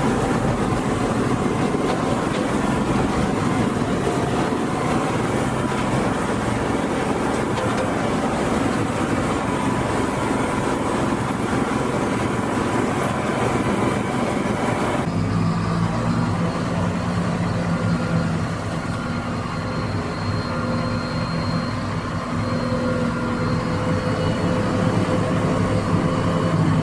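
Heizohack wood chipper driven by a Massey Ferguson tractor, chipping branches with a dense, loud grinding roar. About halfway through the chipping noise stops abruptly, leaving the tractor engine and chipper running steadily with a lower hum.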